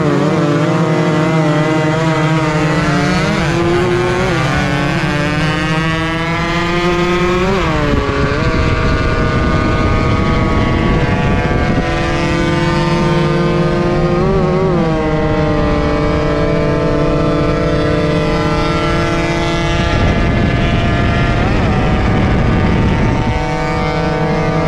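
Motorcycle engine accelerating, its pitch rising for about eight seconds, then shifting up and running at a steady cruise with two brief dips in revs. A low rush of wind noise runs underneath.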